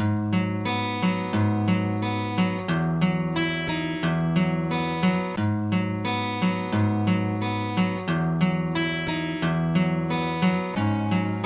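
Instrumental intro of a song: strummed acoustic guitar playing a repeating chord pattern, starting suddenly after a quiet fade-out.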